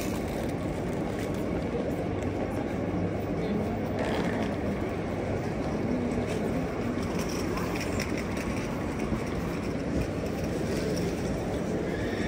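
Steady low rumble of a moving vehicle or traffic, with faint voices in the background.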